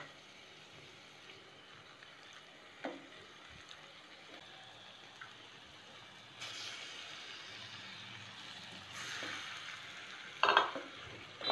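Raw chicken pieces sizzling in a hot stainless steel pan of fried onion and tomato as a wooden spatula turns them. The sizzle starts about six seconds in, and a few sharp knocks of the spatula against the pan come near the end.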